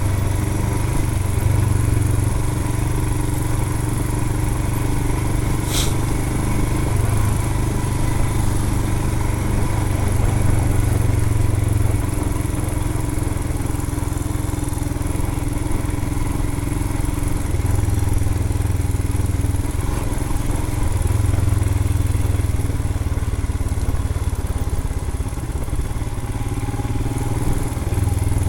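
Royal Enfield Himalayan's 411 cc single-cylinder engine running at low, fairly steady revs while the motorcycle is ridden over a rough dirt trail, the engine note easing and swelling now and then. A single sharp click about six seconds in.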